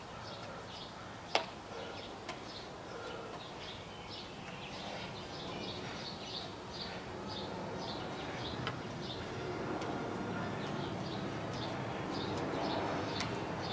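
Small birds chirping over and over, two or three short chirps a second. A single sharp click comes about a second in, and a low rushing noise builds toward the end.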